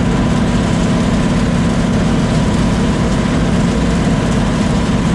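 Combine harvester running steadily while shelling corn: a loud, even drone of engine and threshing machinery with no change in pitch.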